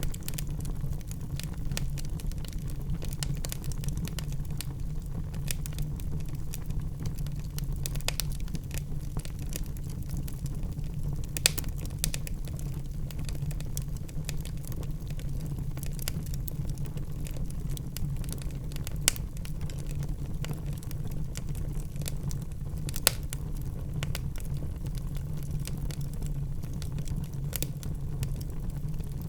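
Wood fire burning in a fireplace: frequent small crackles over a steady low rumble, with three louder pops, about 11 seconds in, near 19 seconds and near 23 seconds.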